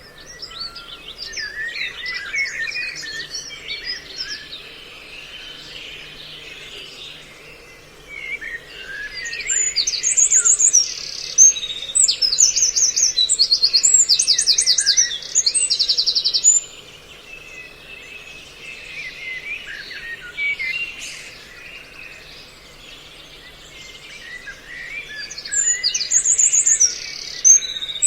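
A mix of songbird calls played back as a trapping lure: many short chirps and whistles overlapping throughout. Loud runs of rapid, high-pitched trilled notes come in about a third of the way through and again near the end.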